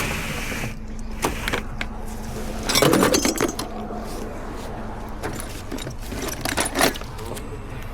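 Metal clinks and rattles of hand tools at work on a car battery being replaced: scattered sharp taps, with a longer clatter about three seconds in and a couple more taps near the end.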